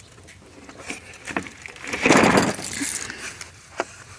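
Rummaging through a box of tools and parts: scattered light clinks of small metal objects, with a louder rustling scrape about two seconds in.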